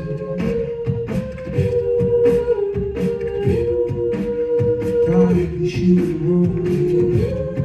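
A cappella group singing sustained wordless chords over a beatboxed rhythm.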